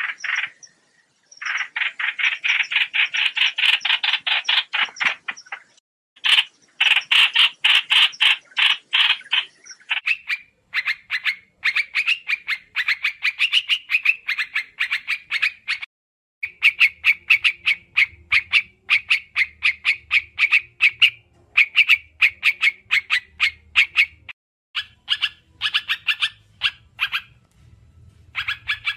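Lure-call recording of the bird known in Vietnam as trao trảo: runs of very fast, rapidly repeated high call notes, each run lasting a few seconds with short breaks between. A faint low hum lies under the second half.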